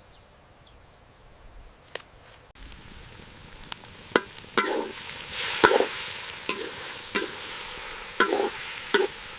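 Food sizzling in a hot pan while it is stirred, with repeated sharp clinks and knocks of a utensil against the pan. The sizzling starts about two and a half seconds in, after a quieter stretch with a single click.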